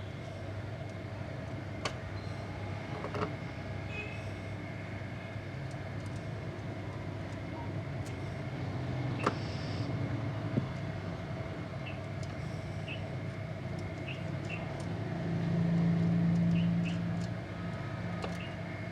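Steady low mechanical hum with a few sharp metallic clicks and clinks. A louder low drone swells for about two seconds near the end.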